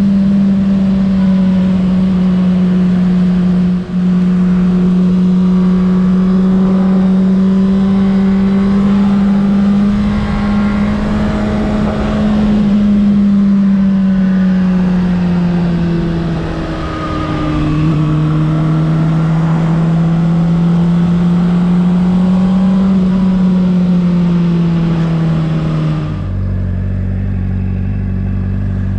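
Honda CBR600RR's inline-four engine running under way at steady high revs, its note drifting slowly up and down, with rushing wind noise. There is a brief dip about four seconds in, and the note drops to a lower pitch near the end.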